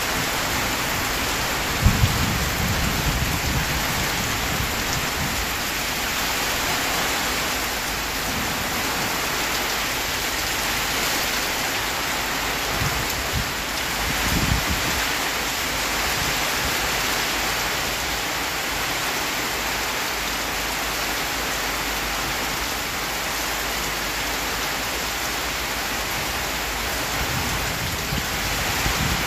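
Heavy rain pouring steadily in a thunderstorm, with thunder: a sharp crack and low rumble about two seconds in, and further rumbles about halfway through.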